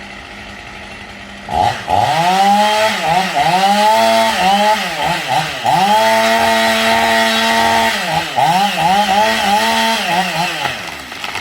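A small, high-revving engine being revved up and down over and over, its pitch swooping quickly up and falling back, held steady for a second or two at high revs a few times before dying away near the end.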